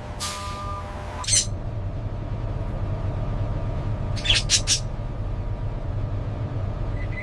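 Low steady hum of an idling truck at a loading bay. A hiss of air near the start ends in a sharp knock about a second in. About four seconds in comes a quick run of three or four short chicken squawks.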